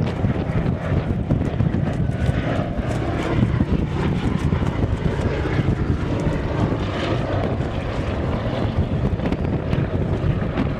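Propeller aircraft engine droning steadily in flight, with wind buffeting the microphone.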